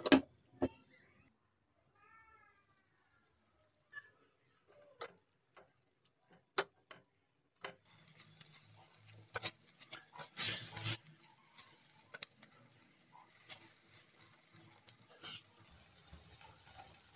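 A glass lid clinks onto a steel pot, followed by a few light knocks. From about eight seconds in, beef mince sizzles in the pot while a wooden spoon scrapes and stirs it, loudest around ten seconds in.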